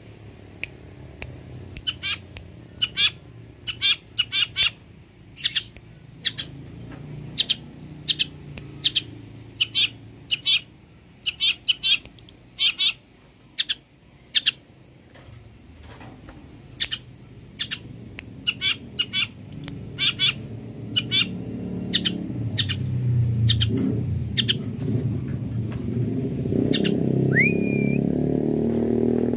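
Long-tailed shrike (cendet) calling in full voice: a long run of short, harsh notes at an uneven one to two a second, with a couple of whistled notes that slide up near the end. A low rumble underneath grows louder through the second half.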